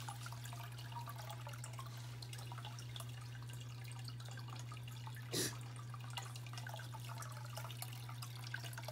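Creek water trickling and dripping steadily, with one brief louder noise about halfway through.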